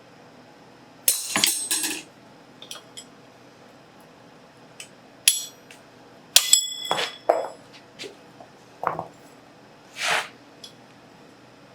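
Irregular clanks of steel on steel and hammer blows as a rivet head is set on forged calipers over a bolster, several blows ringing briefly. A short rasping noise comes near the end.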